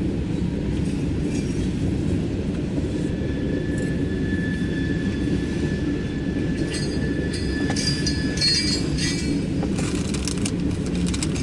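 Loaded coal train's hopper cars rolling past, a steady low rumble of wheels on rail. A thin wheel squeal is held for several seconds from about three seconds in, and higher, scratchy squeals come near the end.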